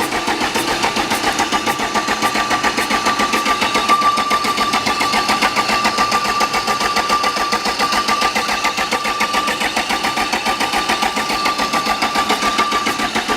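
Volvo diesel engine cranking over steadily on its starter motor, with rapid even compression pulses and a steady starter whine, while fuel is bled from injector lines that have been cracked open. The cranking stops suddenly at the end.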